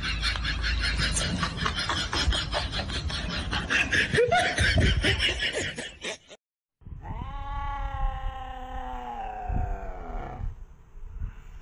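Clattering and rattling of a metal gate bolt as a goat works at it. After a brief break comes one long drawn-out cat yowl, falling slightly in pitch.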